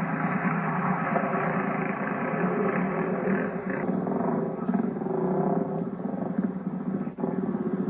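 Enduro motorcycle engine running hard, its revs rising and falling as the bike ploughs through mud, with a brief drop about seven seconds in.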